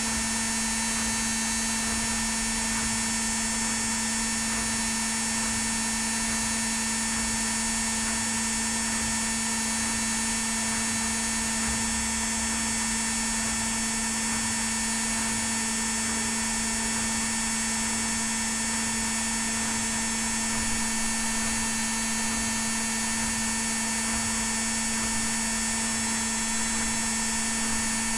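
Indesit WIL82 washing machine on its spin cycle, the drum spinning at a constant speed with a steady motor whine.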